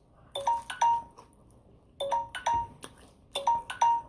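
A timer alarm chiming: a bright electronic ring tone of about three quick pings, repeating about every one and a half seconds.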